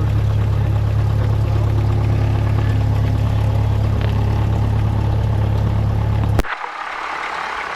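Cessna 172's engine idling, heard as a steady low drone. About six seconds in there is a sharp click, and the low drone drops away, leaving a hiss.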